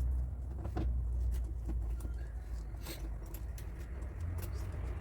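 Workshop background: a steady low hum with a few scattered light taps or clicks.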